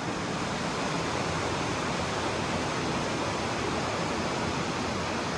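Fast-flowing river rushing, a steady even wash of water noise with no breaks.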